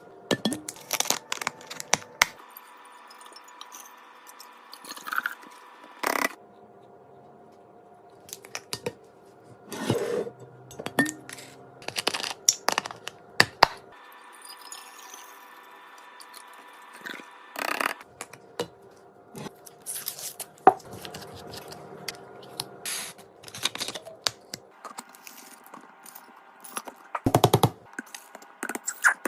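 Plastic food packaging being torn open, crinkled and handled, with irregular sharp rustles and clatters as items are unpacked and set down.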